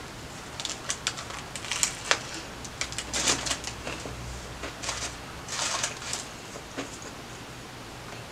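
Close-miked biting and chewing of a Subway steak and cheese sandwich: a run of short, crisp crunches and wet clicks of bread and filling, in clusters, with quieter stretches between.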